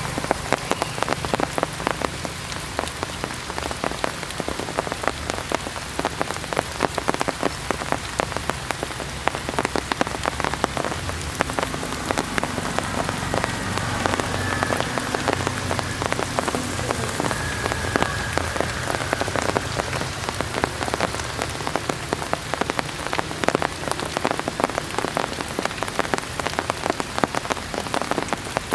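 Heavy rain falling, a dense steady patter of drops striking surfaces close by.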